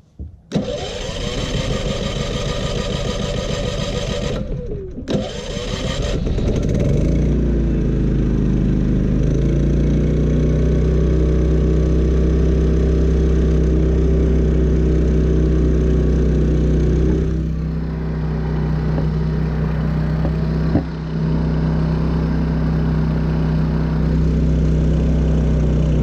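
Champion 3400-watt dual-fuel inverter generator starting up on gasoline. The engine runs roughly and breaks off briefly about five seconds in, then picks up again and settles into a steady, even run at fixed speed (economy mode off) with no load connected. It is loud, about 80 dB right next to it.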